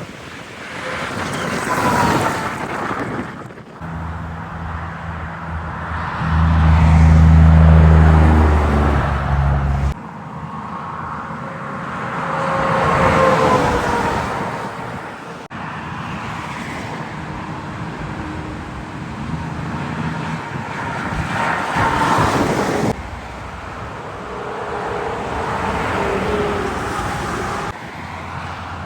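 Highway traffic going by one vehicle after another, trucks among them. Each pass swells and fades with a falling whine. The loudest, about a quarter of the way in, carries a deep engine drone. The sound changes abruptly several times between passes.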